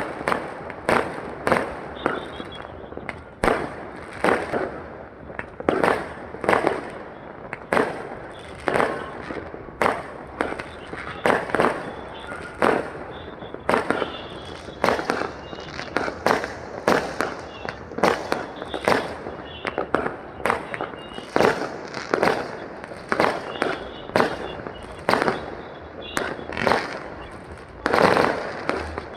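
Fireworks display: aerial shells bursting in a continuous string of bangs, about one to two a second, each followed by a short echoing tail.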